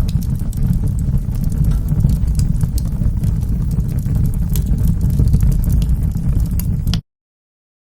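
Wood fire burning in a fireplace: a steady low rumble of flames with scattered sharp crackles and pops. The sound cuts out abruptly about seven seconds in and stays silent for the last second.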